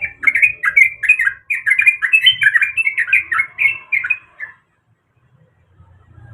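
Sooty-headed bulbul singing a rapid run of short chattering notes, which stops about four and a half seconds in.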